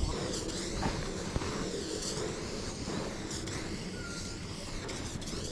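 A train moving along the tracks: a steady rumbling hiss with a slowly sweeping whoosh in it.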